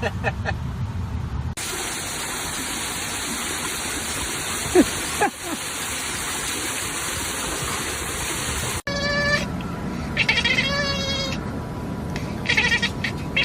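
A cat meowing several times in short calls, in the last few seconds. Before that, a steady hiss runs for several seconds with one brief high squeal in the middle.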